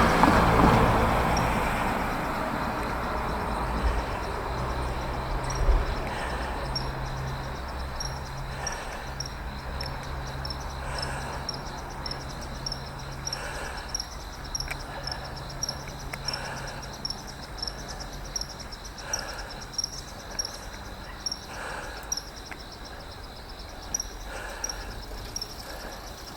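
Insects, such as crickets, chirping in a steady high-pitched pulsing rhythm of about two to three pulses a second. Under them is the low hum of a vehicle engine, loudest at the start and fading away.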